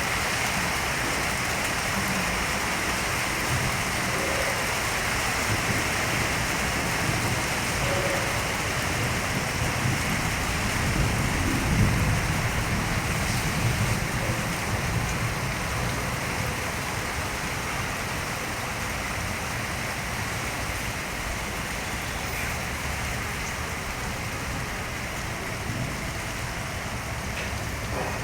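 Heavy rain pouring down steadily, with a low rumble swelling and fading about eleven to thirteen seconds in.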